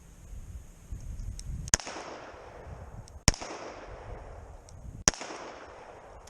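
Three handgun shots about a second and a half apart, each sharp crack followed by a short echo off the range.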